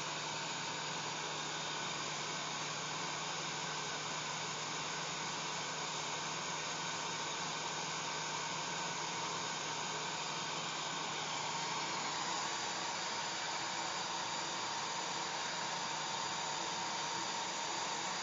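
Hair dryer running steadily: a constant airy rush with a faint motor hum through it. About twelve seconds in the tone shifts slightly: the low hum fades and a higher whine comes forward.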